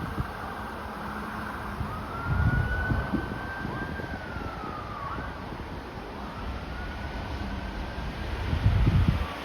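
A distant siren wailing in slow rises and falls, heard faintly under strong wind buffeting the microphone in gusts, loudest about two and a half seconds in and near the end.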